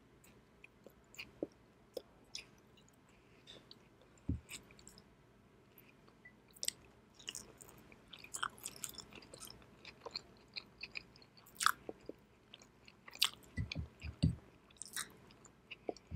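Close-miked chewing of raw tuna sashimi: irregular wet mouth smacks and clicks, with a soft low thump about four seconds in and three more near the end.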